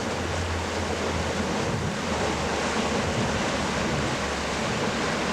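Steady rush of water and wind around a sailing yacht moving fast, at about 14 to 15 knots, with a low steady hum underneath.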